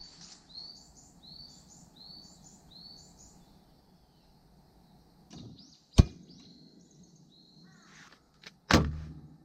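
A small songbird repeating a short high-pitched phrase about five times, with scattered calls after. A sharp click about six seconds in and a louder, heavier knock near the end stand out above the birdsong.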